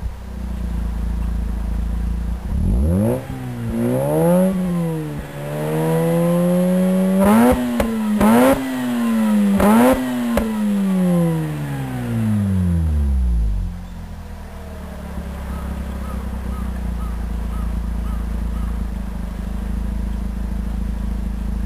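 Mazda RX-8 Type RS's two-rotor Renesis rotary engine, breathing through an R-Magic tuned muffler, free-revved: idle, two short blips, then a long climb held high with a few short sharp cracks before the revs fall away. It settles back to a steady idle for the last several seconds.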